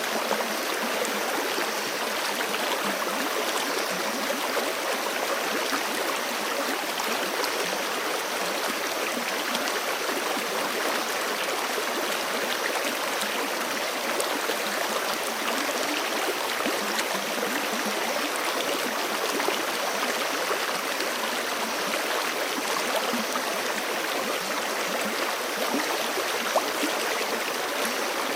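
Mountain creek running over rocks: a steady, dense rush of water with fine splashing and gurgling. A single faint tick comes near the end.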